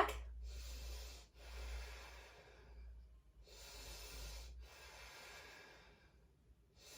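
A person breathing slowly and audibly close to the microphone, about four soft breaths in a row, each lasting about a second, while holding a standing yoga pose.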